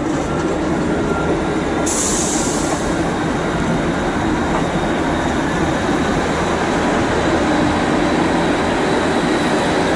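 Class 158 diesel multiple unit moving through the station at close range: its diesel engines run steadily under heavy wheel-on-rail noise, with a short burst of air hiss about two seconds in.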